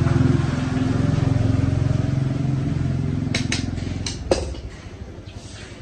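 Restored vintage Honda motorcycle engine idling steadily, then stopping about four seconds in, with a sharp click as it cuts out.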